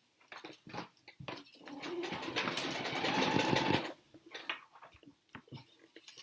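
A fast, even mechanical rattle that builds from about a second and a half in and stops abruptly around four seconds in, with scattered clicks and knocks before and after it.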